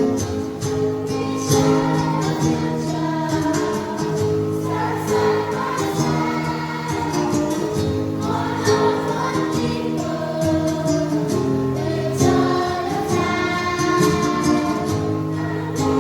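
A choir singing a hymn with instrumental accompaniment and a steady percussive beat.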